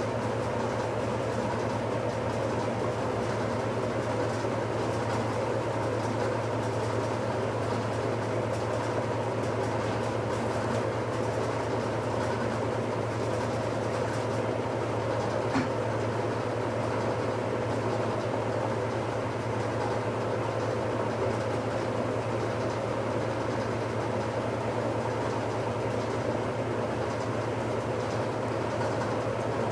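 1969 Westinghouse LAJ535A3 washing machine running steadily in its final spin: a constant motor and drum hum. A single small tick about halfway through.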